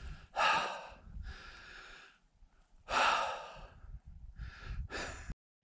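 A person breathing hard: two loud exhales about two and a half seconds apart, with quieter breaths between them. The sound cuts off just before the end.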